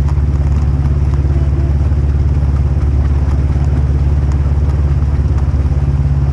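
Polaris RZR 1000 High Lifter side-by-side's twin-cylinder engine running at a steady pace, loud and low.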